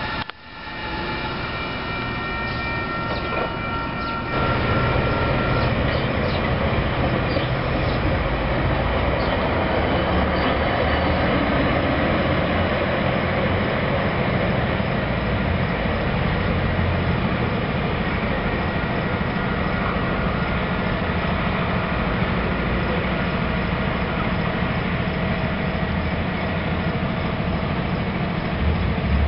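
Metra commuter train of bilevel passenger cars rolling out of the station: a steady rumble of wheels on the rails as the cars pass and draw away.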